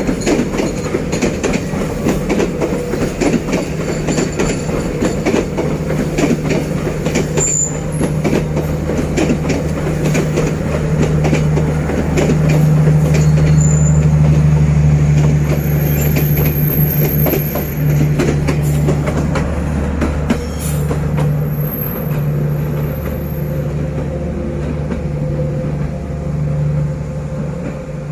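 Passenger train hauled by a D19E diesel-electric locomotive running on a curve, heard from aboard: a steady diesel drone that swells about halfway through, under the clatter of wheels on the track, with a few brief high wheel squeals.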